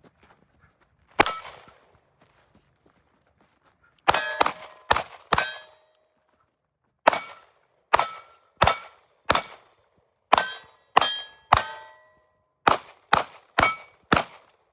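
A basketball bouncing hard on a court, each bounce a sharp, ringing ping. After a single bounce comes a quick run of four, then a steady run of bounces about two every second and a half.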